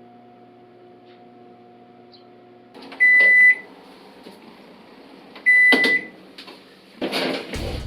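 Washing machine control panel giving two clear electronic beeps at one high pitch, about two and a half seconds apart; a low rumble starts just before the end.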